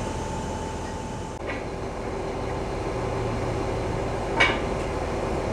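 Heavy crane machinery running steadily with a low rumble and a faint steady tone, with a single sharp metal clank about four and a half seconds in.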